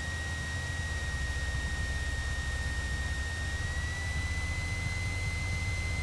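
Cessna 172's piston engine running steadily, a low drone under even hiss, with a steady high whine that steps up slightly in pitch about four seconds in.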